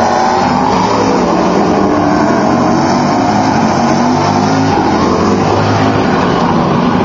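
Sports-prototype and GT race car engines at a hairpin, several overlapping, their pitch rising and falling as they brake and accelerate.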